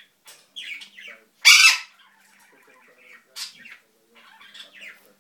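African grey parrot squawking: one loud, harsh squawk about one and a half seconds in, among several shorter, softer calls.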